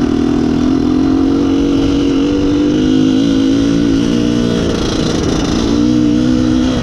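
IZh Planeta Sport's single-cylinder two-stroke engine running at steady revs, its pitch dipping briefly about five seconds in and then coming back up. The ignition has just been advanced slightly and the mixture screw adjusted to cure a lean-running fault.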